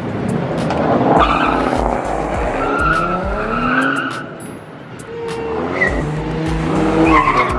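Car engine revving up and down with the tires squealing and skidding, as in a burnout or spin.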